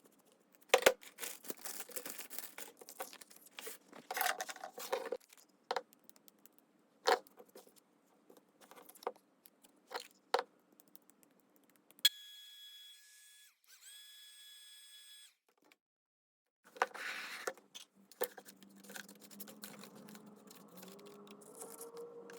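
Paper and craft materials handled on a tabletop: rustling with scattered taps and sharp clicks. About halfway through, a steady high electronic tone sounds for about three seconds, then drops out abruptly before the handling noises resume.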